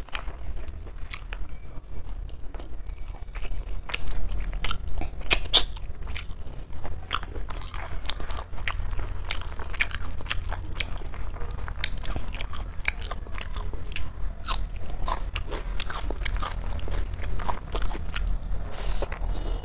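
Close-miked eating of rice with mutton head curry: steady chewing with frequent crunchy bites and sharp mouth clicks at an irregular pace, over a steady low hum.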